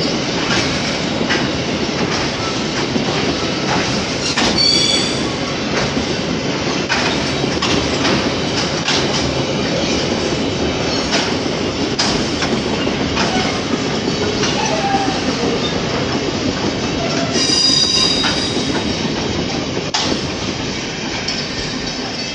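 Loaded freight wagons rolling past close by: a steady rumble of steel wheels on rail with repeated clicks as the wheels cross rail joints. High metallic squeals rise twice, about four seconds in and again near eighteen seconds.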